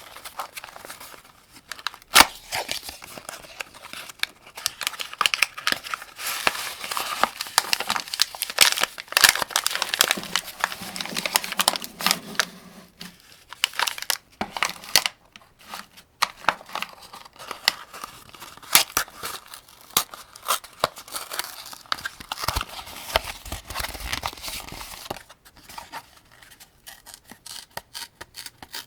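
Rounds being handled and loaded into an AK-47 75-round drum magazine: a long run of sharp metallic clicks mixed with rustling and scraping. The noise comes in two busy stretches with quieter handling between them.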